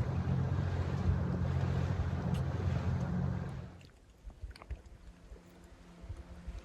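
Boat motor running steadily under way, with wind noise on the microphone. It drops away suddenly about four seconds in, leaving a quieter stretch with a few small clicks.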